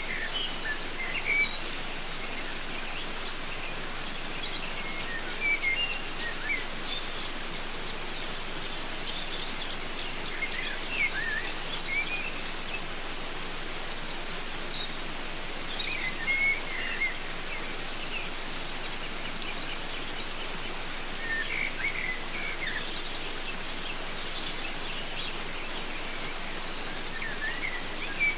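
Waterfall rushing steadily, with a bird's short chirping calls breaking in about every five seconds.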